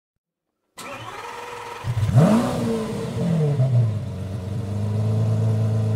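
Car engine starting: a steady sound for about a second, then the engine catches with a sharp rev about two seconds in. It falls back to a steady idle.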